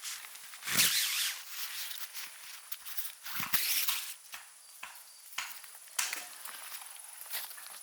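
Irregular rustling and light knocks, as of things being handled and moved about, with a heavier thud about a second in and another at about three and a half seconds.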